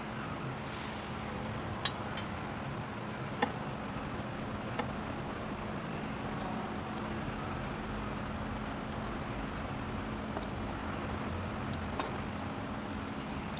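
Steady background hum with a faint constant tone, broken by a few short, sharp clicks, about four in all.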